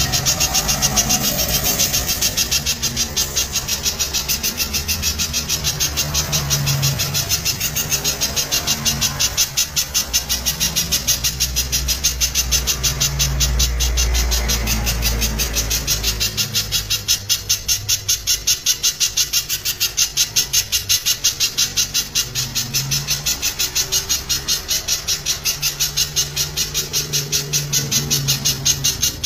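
Spiderhunter calling loudly: a fast, even run of sharp high notes, about four to five a second, kept up without a break. Other birds, chickens among them, sound faintly underneath.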